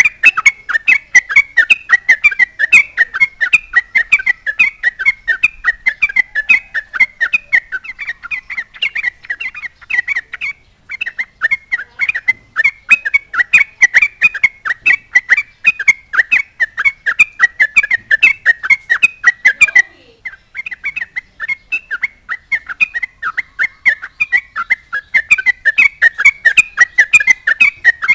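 Yellow-vented bulbul (trucukan) singing loudly: a rapid, chattering run of short bubbly notes, several a second, broken by two brief pauses.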